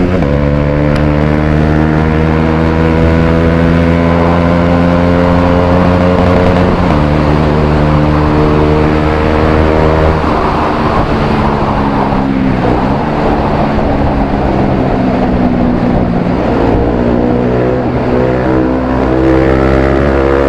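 Motorcycle engine with an aftermarket Akrapovic exhaust, running under way with a steady exhaust note. The pitch changes about a third of the way in and again about halfway.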